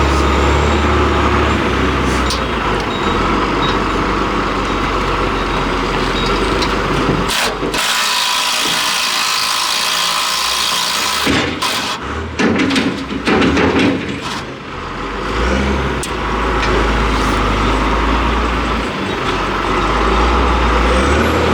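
Oxy-acetylene torch flame hissing as it heats a seized nut, over the steady drone of an engine running. The low drone drops out for a few seconds near the middle, leaving only the hiss, followed by a run of metal clanks and knocks.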